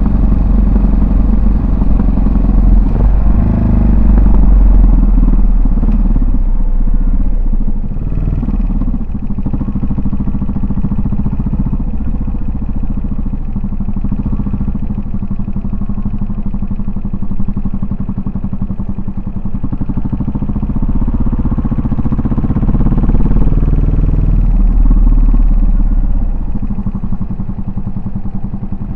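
Yamaha SR400's single-cylinder four-stroke engine and exhaust pulling along on the road, louder a few seconds in and again near the end, easing off in between.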